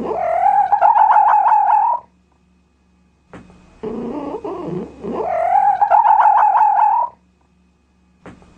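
A cat's long, high, wavering yowl, heard twice about five seconds apart. Each yowl comes straight after a shorter, lower wavering call.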